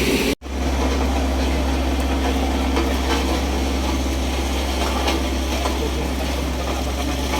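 Steady low engine rumble of vehicles on the road, with an even wash of noise over it. Less than half a second in, the sound cuts out for an instant and then resumes.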